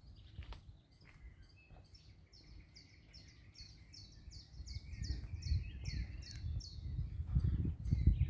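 A songbird singing a long run of short, high, falling notes, about three a second, with lower warbling notes from another bird beneath. Low thumping rumble grows from about halfway through.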